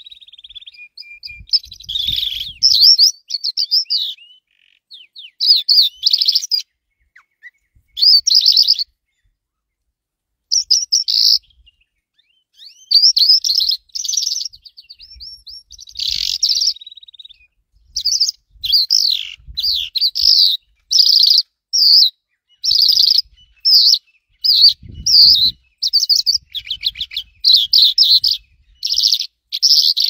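Bird chirping: a long series of short, high, trilled chirps, coming about one a second through much of the clip with a brief silent gap partway through.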